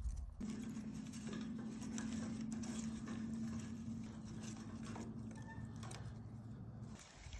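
Dry tinder crackling and popping as it catches alight, over a steady low hum that starts about half a second in and stops shortly before the end.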